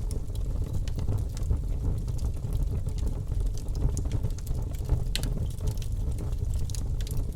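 Campfire burning, with scattered sharp crackles and pops over a steady low rumble; one pop about five seconds in is louder than the rest.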